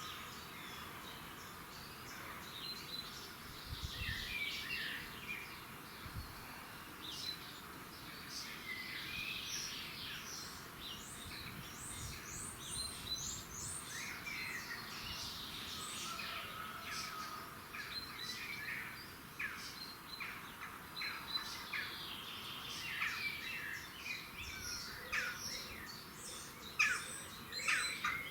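Several birds singing and chirping together in a dawn chorus, with many short chirps and trills overlapping throughout.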